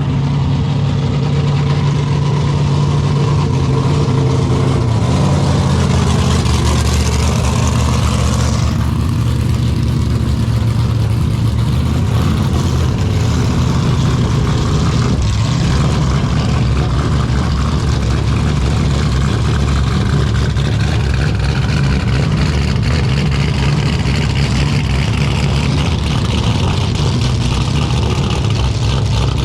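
Car engine running loudly and steadily, its pitch shifting slightly now and then.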